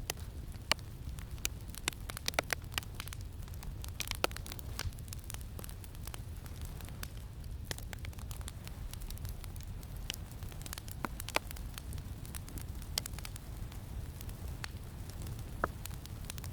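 Campfire crackling, with irregular sharp pops scattered through it and bunched most thickly a few seconds in, over a steady low rumble of wind.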